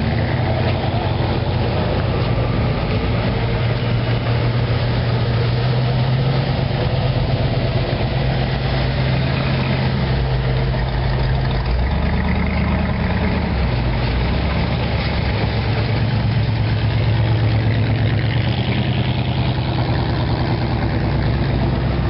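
Hot rod and classic car engines running at a low idle as the cars roll past one after another, a deep steady rumble whose pitch shifts about halfway through and again near the end as a different car takes over.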